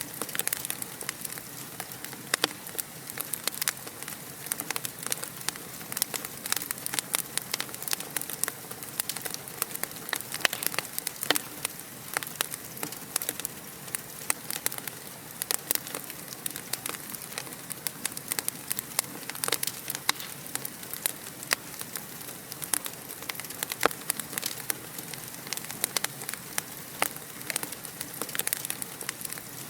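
Fire crackling in a fireplace: a steady stream of irregular sharp pops and snaps, some louder than others, over a soft hiss.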